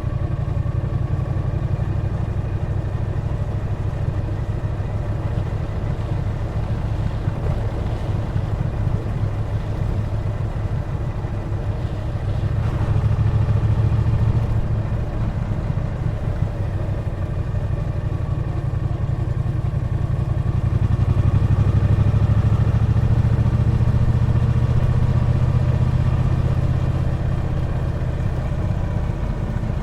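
Triumph Bonneville T120's 1200 cc parallel-twin engine running on the move. It keeps a steady pull and gets louder as the throttle opens, briefly about 13 seconds in and again for several seconds from about 20 seconds in.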